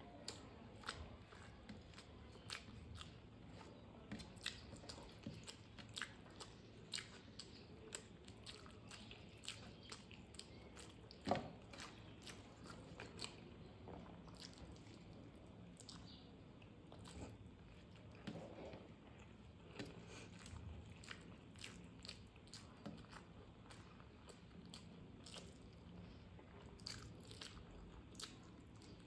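A person chewing and biting food close to the microphone, with frequent small crunchy clicks and wet mouth sounds. There is one sharper, louder crunch about a third of the way through.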